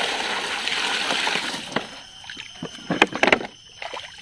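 Running water pouring steadily over a toy vehicle being washed, cutting off under two seconds in. Then splashes and a few sharp knocks as the wet toy is handled, loudest about three seconds in.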